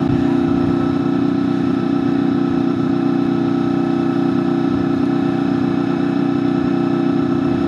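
Honda VFR800FI Interceptor's V4 engine running at steady revs while the motorcycle cruises, a constant drone that holds one pitch throughout.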